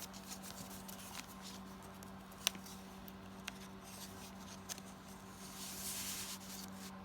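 Paper tags and card ephemera being handled and slid into journal pockets: soft rustling with light taps, one sharper tap about two and a half seconds in, over a steady low hum.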